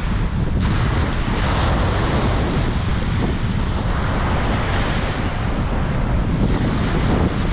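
Ocean surf breaking and washing up a beach, with a surge of wash beginning about half a second in, over a steady rumble of wind buffeting the microphone.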